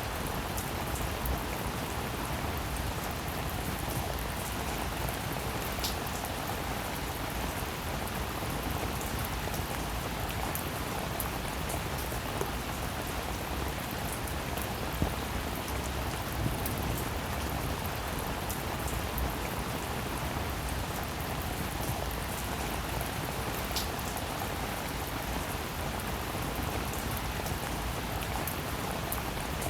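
Steady rainfall, with sharp individual drop impacts ticking through it.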